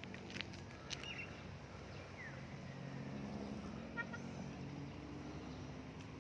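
A motor vehicle's engine humming steadily, growing louder about halfway through as it comes closer. There are a few sharp clicks in the first second.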